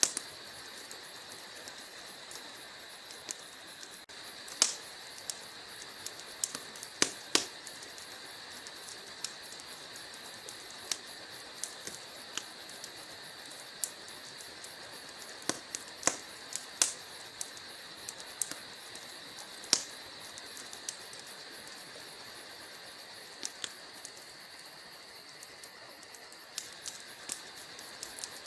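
Wood fire in a fireplace crackling: burning logs giving irregular sharp pops and snaps, a few louder ones scattered among many small ticks, over a steady hiss.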